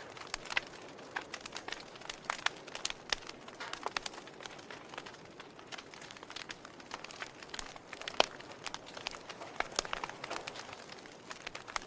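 Fire crackling: a steady hiss with irregular sharp pops and snaps, the loudest about eight seconds in.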